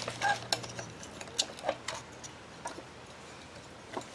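Irregular light clicks and taps of small metal motor parts and tools being handled. There are several in the first two seconds, then a single click near the end.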